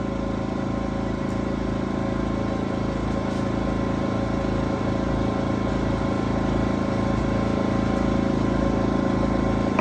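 Generac GP2200i inverter generator's small engine running steadily after its carburetor work, growing slightly louder over the seconds.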